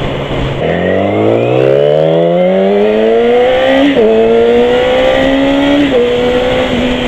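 Yamaha R6 inline-four sport-bike engine accelerating hard, revs climbing steadily, with a gear shift about four seconds in and another around six seconds, then holding a fairly steady pitch.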